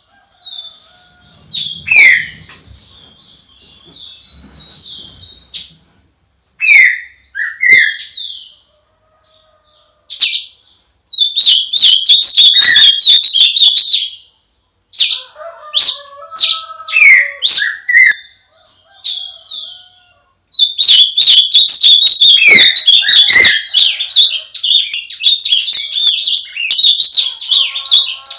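Songbirds singing: quick high chirps and fast trills in phrases broken by short pauses, with a long unbroken run of song through the second half.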